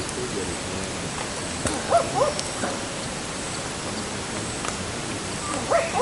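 A few short animal calls, a quick pair about two seconds in and another near the end, over a steady hiss.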